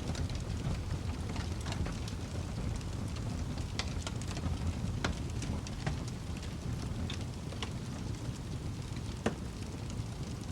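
Wood fire burning in a fireplace: a steady low rumble of the flames with irregular sharp crackles and pops, the loudest about five and nine seconds in.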